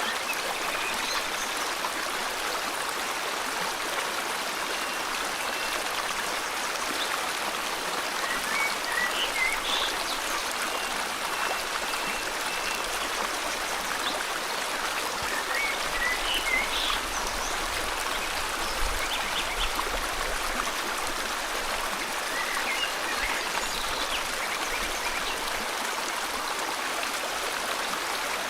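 River water flowing steadily, with birds chirping and whistling short notes now and then over it.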